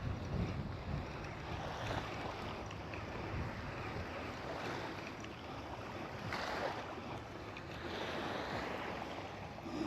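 Small waves washing in at the shoreline, swelling and fading every few seconds, with wind rumbling on the microphone.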